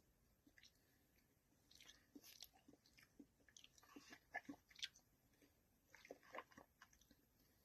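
Faint sounds of a person eating melted Blizzard ice cream: soft chewing and small mouth clicks, coming in two clusters.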